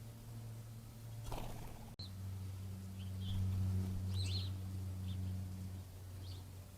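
Short, high songbird chirps, about six scattered through the second half, over a steady low hum. A brief rush of noise comes about a second in.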